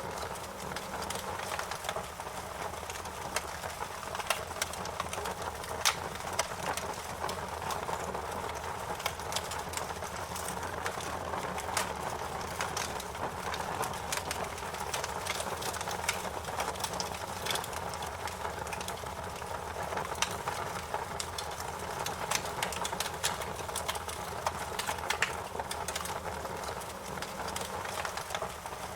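Wood fire crackling in a fireplace: frequent irregular pops and snaps over a steady rush of burning.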